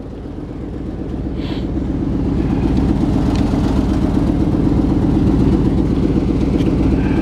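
Pickup truck engine running at a steady idle, growing steadily louder over the first few seconds and then holding.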